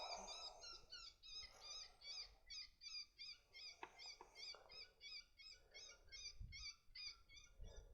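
Faint, rapid series of short, squeaky high-pitched chirps, about four a second, an animal-like call, with a low rumble of wind on the microphone near the end.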